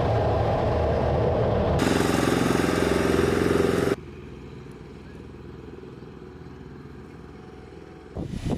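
Jet engine noise from several spliced clips. A steady engine noise with a low hum switches abruptly to a brighter, hissier noise about two seconds in. At about four seconds it cuts to a much quieter low rumble, and a louder sound starts near the end.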